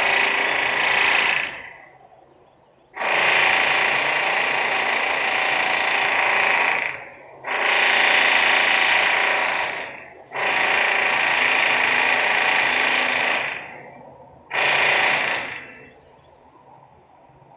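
Loud machine noise from an industrial site: a buzzing whine that starts and stops abruptly, in five runs of one to four seconds each with short gaps between.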